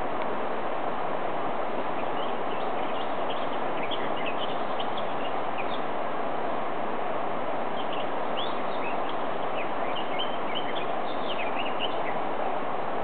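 Small birds chirping, many short high calls in two loose spells, over a steady rushing hiss.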